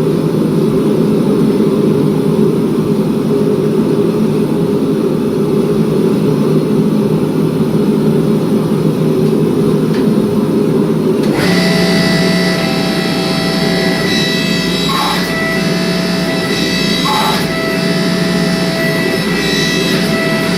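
Steady, loud shop machinery noise: a rushing roar with a low hum that changes abruptly about eleven seconds in to a whining motor made of several steady tones, with a few light knocks.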